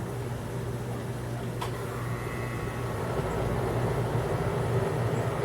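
An engine running steadily with a low hum, a little louder in the second half, with a single click about one and a half seconds in.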